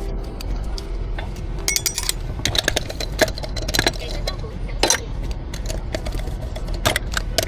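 Light clinks and clacks of cups and metal barista tools, in a quick irregular run that is busiest in the middle, over a steady low hum.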